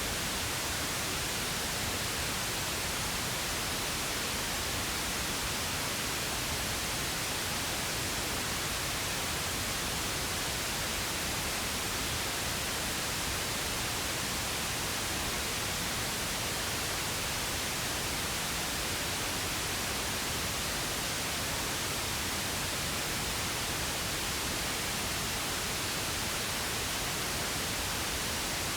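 Pink noise: a steady, even hiss across the whole range that never changes.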